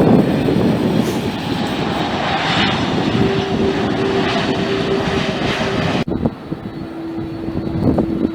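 Airliner's engines passing close by: a loud rushing roar with a steady whine coming through partway. About six seconds in it cuts off suddenly to a quieter steady hum.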